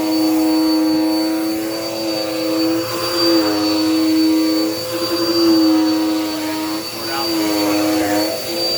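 Dirt Devil Power Max vacuum cleaner running with a steady, high motor whine. Its pitch wavers briefly a few times.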